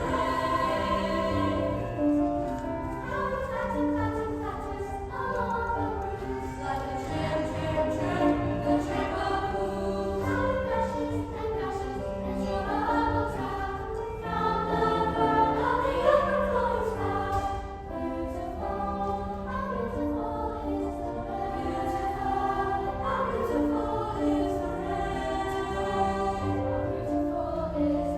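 Youth junior choir singing a choral piece in parts, with instrumental accompaniment under the voices.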